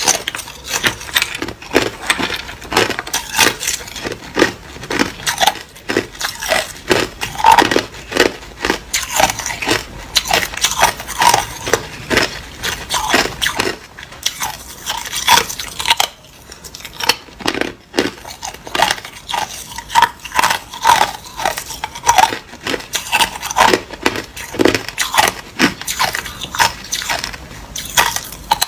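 Hard ice being bitten and chewed close to the microphone: a continuous run of sharp, loud crunches and cracks, with a brief lull about halfway through.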